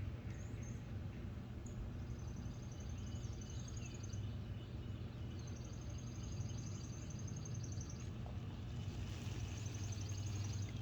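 A small bird trilling three times in high, rapid trills, over a steady low hum.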